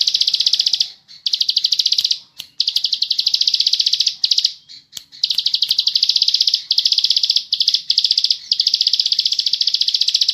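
Ciblek sawah, a prinia, singing its 'ngebren' song: long bouts of a very fast, high-pitched rattling trill. There are short pauses about a second in, just after two seconds and around four to five seconds, and the trill runs unbroken from about five seconds in.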